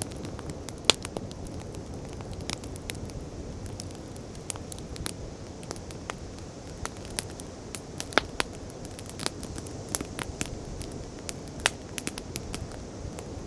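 Wood campfire crackling, with frequent irregular sharp pops and snaps over a steady low rushing noise of sea waves.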